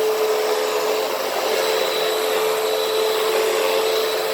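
Hoover WindTunnel T-Series upright vacuum running steadily over carpet, a constant motor whine over the airflow noise.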